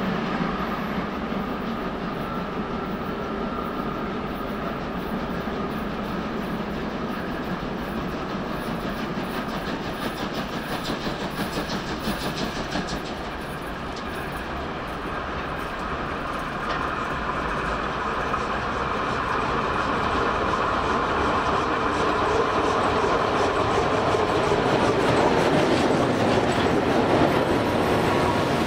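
Freight train of tank wagons rolling through, wheels clacking over the rails and points. Then a steam locomotive hauling its train approaches and passes close by, the running noise growing steadily louder through the second half.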